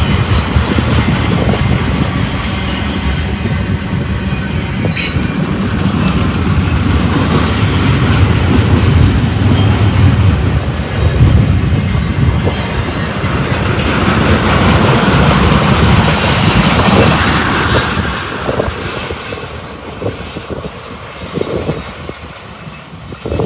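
BNSF freight train rolling past close by: a steady heavy rumble with wheels clacking over the rail joints and a brief high wheel squeal a few seconds in. The sound fades away over the last few seconds as the train moves off.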